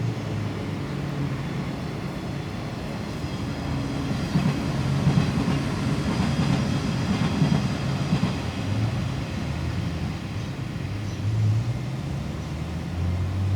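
JNR 115 series electric multiple unit running past, its wheels rumbling on the rails, with several sharp knocks between about four and eight seconds in.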